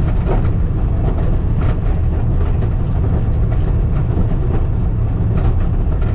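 Skid steer engine running steadily under load while it pulls a grader attachment, with light scattered clatter over the heavy low drone.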